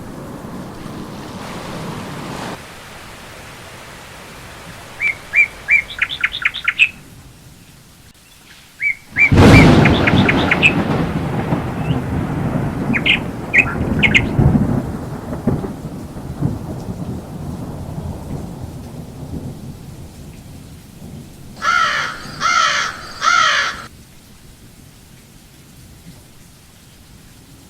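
Heavy rain falling steadily, with a sudden thunderclap about nine seconds in that rumbles on for several seconds. Birds chirp in short quick runs before and after the thunder, and another rapid bird phrase comes near the end.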